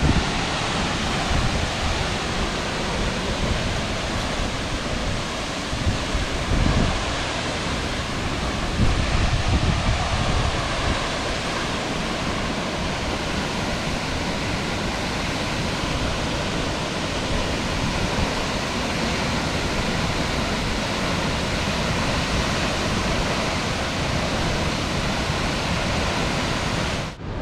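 Bomburu Ella waterfall pouring: a loud, steady rush of falling water, with low buffets of wind on the microphone about six and nine seconds in. The sound cuts off abruptly just before the end.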